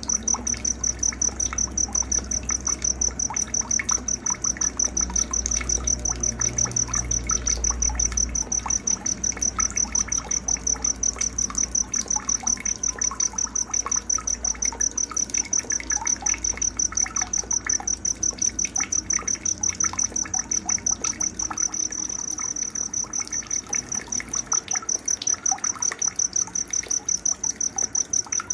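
A cricket chirping in a steady, rapid, even pulse at a high pitch, over scattered short bird chirps.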